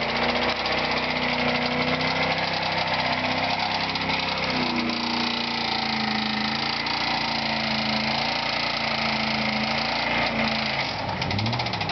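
Ford Crown Victoria police car's V8 engine held at high revs under a brake-held burnout, a steady strained drone over rough tire-spinning noise, its pitch dropping a little about five seconds in and easing off near the end. The motor is knocking and losing antifreeze, which the crew takes for an engine that is toast.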